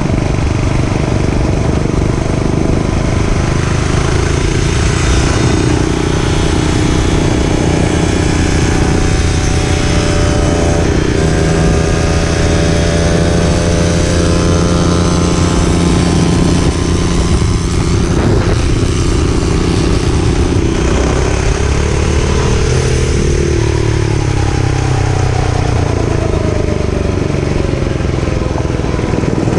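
Dirt bike engine running under way, its pitch rising and falling several times as the throttle opens and closes, over a continuous loud rumble.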